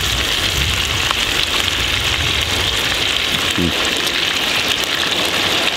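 Steak and bacon sizzling in hot bacon grease in a cast-iron skillet, a steady crackling hiss, over a steady low rumble.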